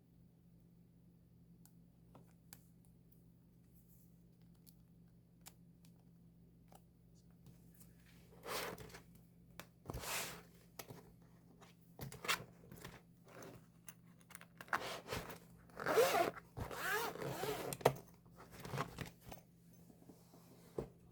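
Album packaging being handled: irregular bursts of crinkling and scraping paper and plastic that start about eight seconds in and are busiest a little past the middle, ending in one sharp click.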